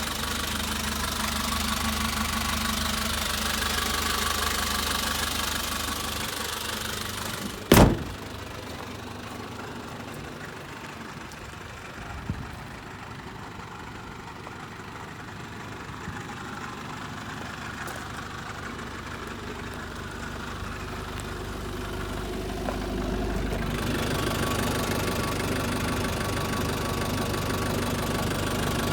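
Nissan Caravan's QD32 3.2-litre four-cylinder diesel idling with a steady clatter. A single loud, sharp bang comes about a quarter of the way in. After it the engine is heard more faintly, until it grows louder again about two-thirds through.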